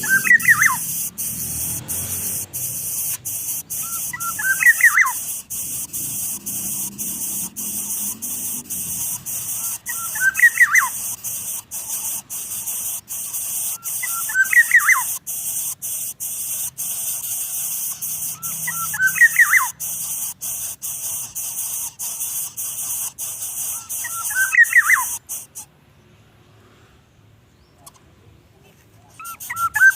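A small bird calls six times, about every four to five seconds, each call a quick burst of falling chirps. Behind it runs a steady high hiss that cuts off suddenly near the end.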